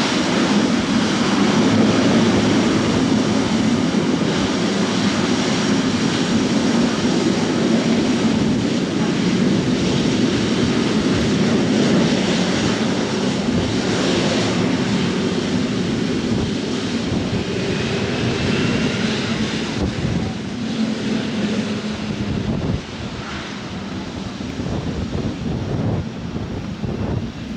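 Jet airliner's engines, a loud steady roar that fades away near the end as the plane passes, with wind buffeting the microphone.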